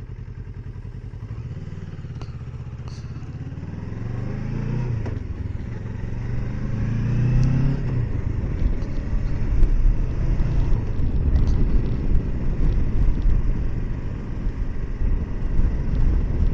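Kawasaki Versys 650's parallel-twin engine idling, then pulling away with the revs rising twice as it accelerates through the gears. From about eight seconds in it runs louder at speed, mixed with wind and road noise.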